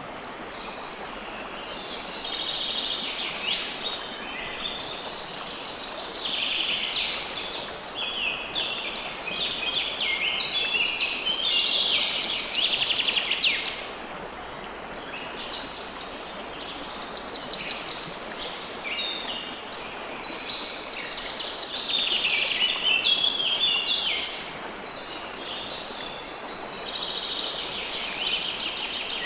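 River water flowing steadily under a chorus of songbirds chirping and trilling almost without pause, the bird song swelling louder twice.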